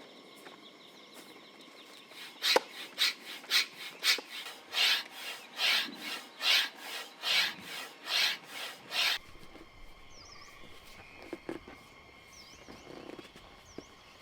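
Hand saw cutting wood in steady back-and-forth strokes, about two a second, that stop abruptly after some seven seconds.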